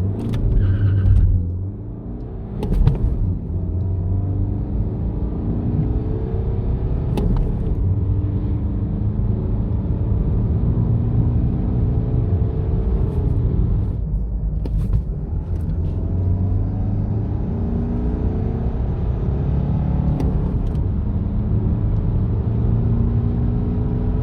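BMW 316d F30's four-cylinder diesel engine accelerating hard from a standstill through a manual gearbox, its pitch rising through each gear and dropping briefly at each upshift, four shifts in all.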